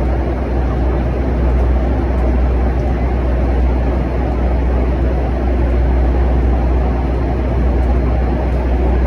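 Loud, steady roar of jet aircraft engine noise with a deep rumble underneath.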